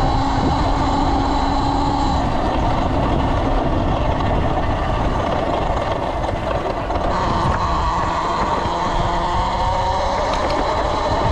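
Electric dirt bike being ridden: a steady rush of road and wind noise with a faint motor whine that shifts in pitch.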